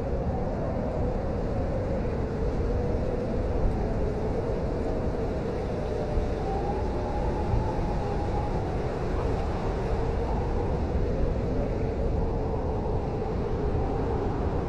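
Blizzard wind blowing steadily, a dense low rumble with a wavering howl that drifts up and down in pitch.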